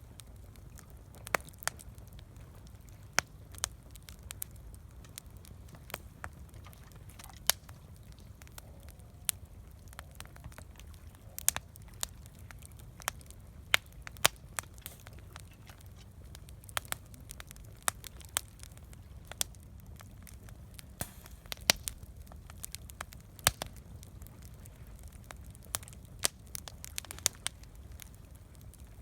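Wood campfire crackling, with sharp irregular pops a few times a second over a steady low rumble.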